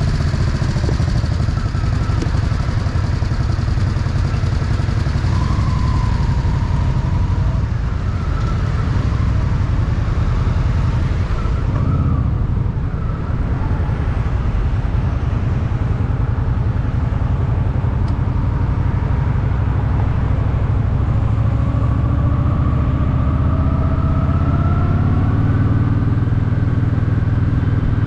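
Honda Shadow VT750's V-twin engine running as the motorcycle rides along, recorded on the bike, under a heavy low rumble of wind and road noise. Its note rises in the last third as the bike speeds up.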